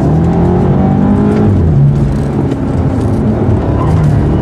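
2015 BMW Alpina B6 Gran Coupe's twin-turbo V8 heard from inside the cabin under hard track driving. The engine note drops twice as the car slows for a tight hairpin, then climbs again near the end as it accelerates.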